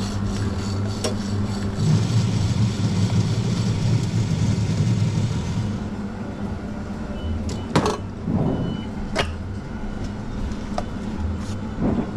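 Café espresso machine running with a steady low hum. About two seconds in, a louder hissing noise starts and stops after about four seconds. Then come several sharp knocks of café equipment.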